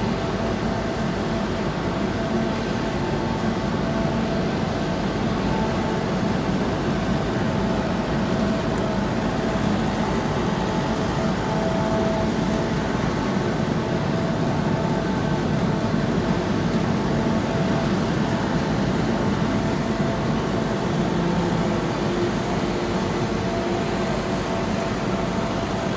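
Steady mechanical drone of a large car ferry's engines and machinery heard on board, with a few faint steady hums over an even rumble.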